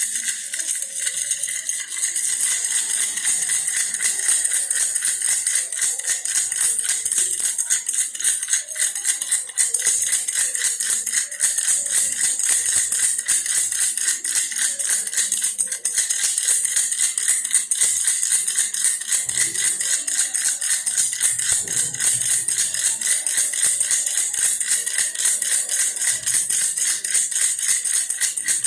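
Baby's toy bear rattle shaken fast and without pause, a dense, bright, high-pitched rattling.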